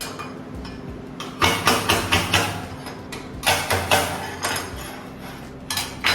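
Sharp metal clanks and knocks on freshly plasma-cut steel plate, in three quick clusters: about five strikes a second and a half in, three or four near four seconds, and two at the very end.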